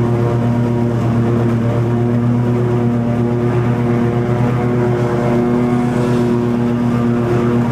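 Toro TimeCutter 50-inch zero-turn mower running steadily while cutting long grass, its engine and deck giving one even, unbroken drone.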